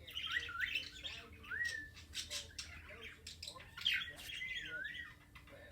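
Pet bird giving repeated harsh squawks, mixed with a few short whistled calls that slide up and down in pitch: an agitated, angry bird.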